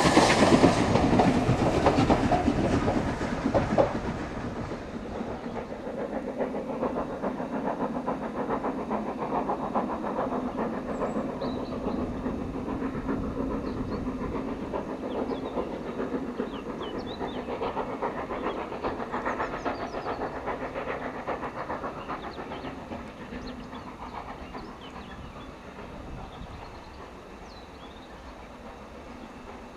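Double-headed steam train working up a steep 1 in 49 gradient: locomotive exhaust and carriages clattering over the rails, loud at first and then fading steadily as the train draws away.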